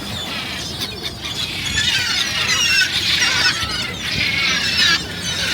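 A flock of gulls calling, many short squealing calls overlapping, growing louder about two seconds in.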